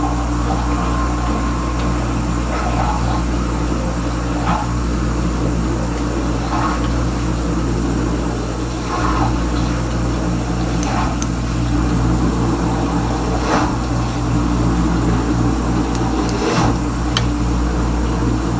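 Kenmore Ultra Wash 3 dishwasher running its wash: the circulation pump motor hums steadily while water sprays inside the tub, with a swish of water every couple of seconds.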